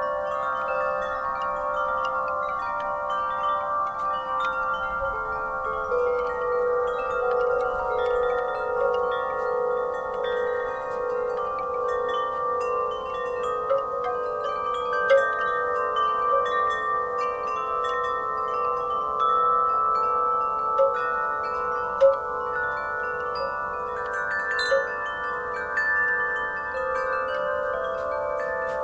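Wind chimes ringing continuously in the breeze, many overlapping sustained tones struck again and again, with a few sharper, louder strikes now and then.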